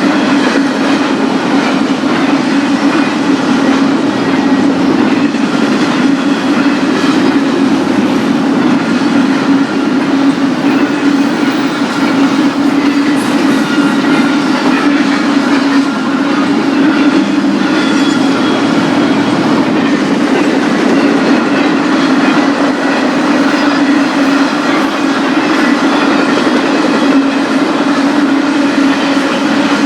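Intermodal freight train rolling past. The steady rumble of its wheels on the rails carries a clickety-clack.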